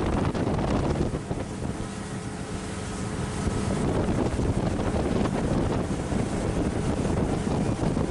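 Ski boat under way on the water, its Mercury engine running steadily, with wind buffeting the microphone.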